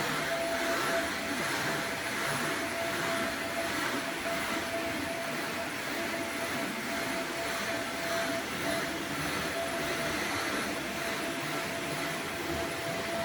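Upright vacuum cleaner running steadily over carpet: an even rush of air with a steady motor whine.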